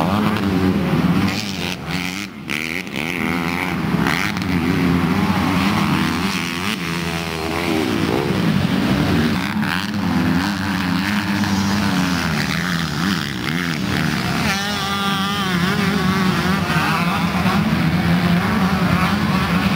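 Four-stroke motocross dirt bike engines running on a dirt track, the revs rising and falling as the bikes accelerate and back off, with a wavering rev run about two-thirds of the way through.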